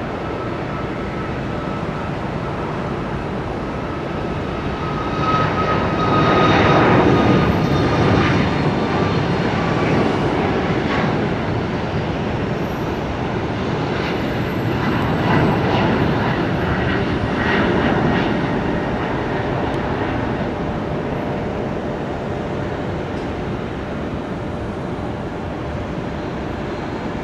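Boeing 737 airliner's jet engines at takeoff power on the departure run, a steady roar that swells to its loudest about six to eight seconds in and again around fifteen to eighteen seconds, with a high whine sliding slowly down in pitch as it passes.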